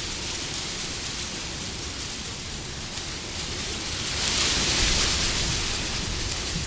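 Steady rushing wind, swelling into a stronger gust about four seconds in and then easing off.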